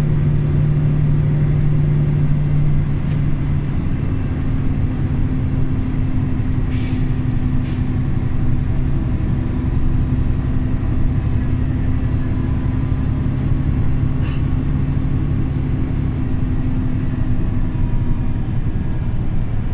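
Scania OmniLink CL94UB city bus running with a steady engine drone whose pitch drops about three and a half seconds in. A short hiss of air comes about seven seconds in and a briefer one near fourteen seconds.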